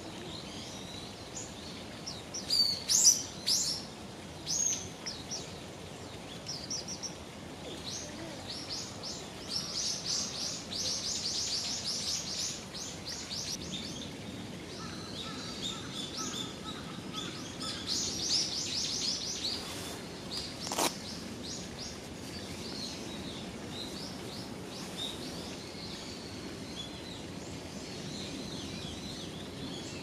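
Small birds calling: a few loud, sharp high chirps a few seconds in, then long rapid runs of high notes, with softer chirping later. A single sharp click sounds about two-thirds of the way through, over a steady outdoor hiss.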